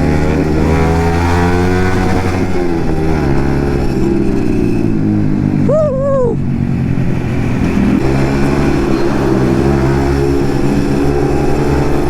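Yamaha MT-15's 155 cc single-cylinder engine through an aftermarket Akrapovic exhaust while riding, the engine pitch rising and falling as the throttle opens and closes. A brief high tone sounds about halfway through.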